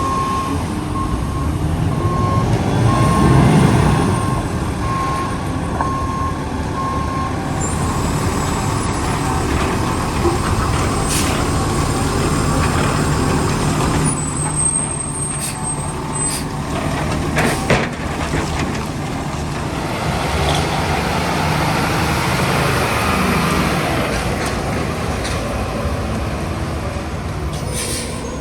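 Concrete mixer truck's diesel engine running, with its reversing alarm beeping at an even pace for the first seven seconds or so. Then come a few short air-brake hisses and knocks.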